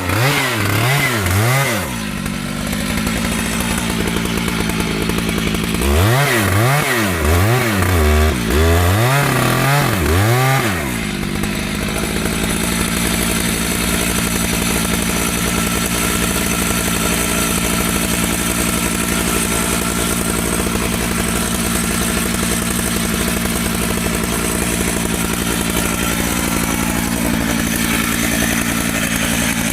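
Chainsaw engine revved up and down in quick blips, a few times a second, for the first couple of seconds and again from about six to eleven seconds in. After that it runs at a steady speed without cutting.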